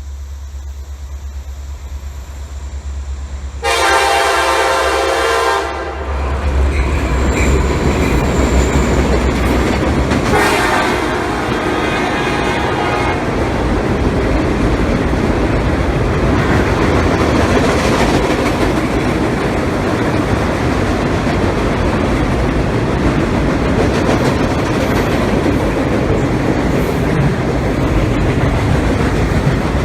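Kansas City Southern freight train: the diesel locomotive rumbles in low and sounds its horn twice, a loud blast about four seconds in and a weaker one about ten seconds in, then the steady rolling rumble and clatter of the freight cars passing over the trestle.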